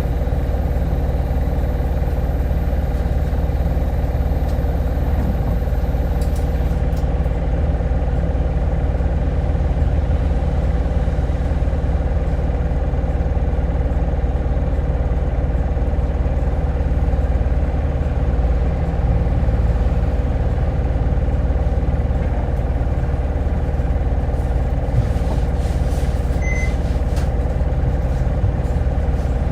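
Cabin running sound of a Hino Blue Ribbon hybrid city bus: a steady low engine and drivetrain rumble with a constant hum of several tones, heard from inside the passenger cabin. Two faint brief ticks come near the end.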